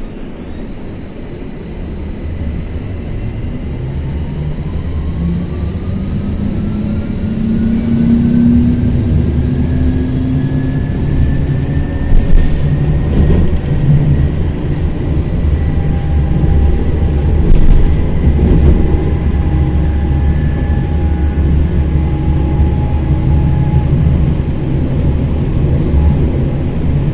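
Stockholm Tram 30 light-rail tram running on its rails: a steady low rumble, with the traction motor's whine rising in pitch over the first dozen seconds as the tram accelerates.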